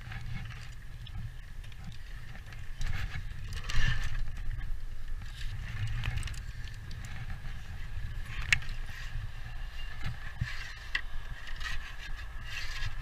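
Scattered scrapes and light clicks of hand tools working on roof slates, over a steady low rumble.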